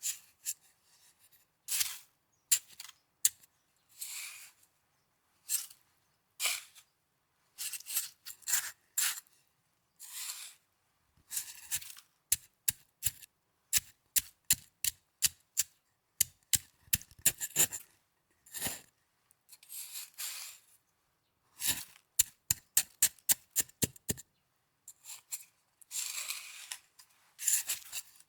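Snow handled close to the microphone, crunching and crackling in irregular bursts: some quick sharp crackles, some longer drawn-out crunches.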